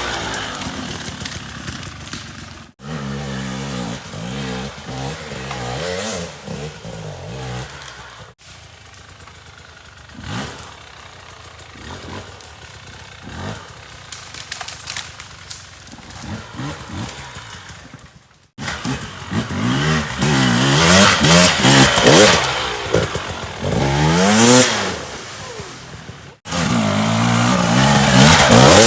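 Dirt bike engines revving up and down as the bikes are ridden on trail, cut into several short clips with abrupt breaks. The busiest, loudest revving comes in the last third.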